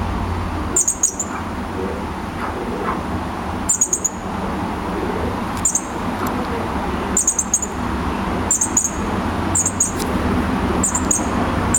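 A fledgling bird chirping: short clusters of two or three very high chirps, repeated about every second or two, the repeated calls of a young bird begging to be fed. A steady low rumble runs underneath.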